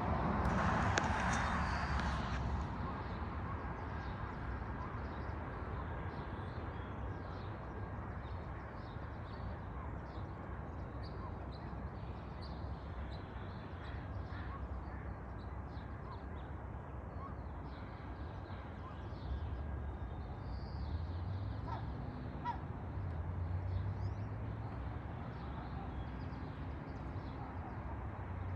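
Gulls calling with harsh, cawing squawks, loudest in the first couple of seconds, then sparser and fainter calls. A steady low rumble of traffic runs underneath.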